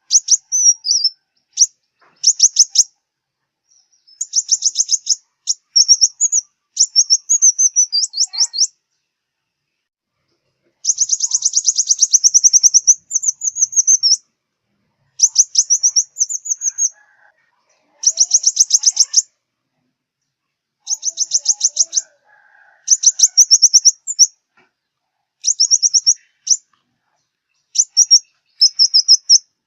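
Sunbird song, the 'five-coloured sunbird' of southern Vietnam: high, rapid trills of quickly repeated notes, each phrase lasting a second or two, with short pauses between them.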